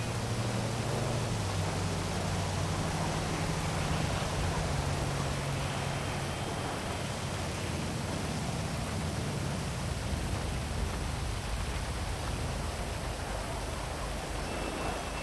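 Heavy rain falling in a steady hiss, with the low hum of a passing vehicle underneath that rises and falls in pitch and fades out about ten seconds in.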